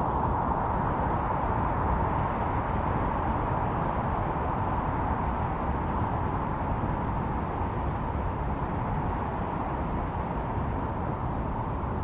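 Snowstorm wind blowing steadily: a continuous rushing noise over a low rumble, with a hollow whistling howl in the middle range that eases a little towards the end.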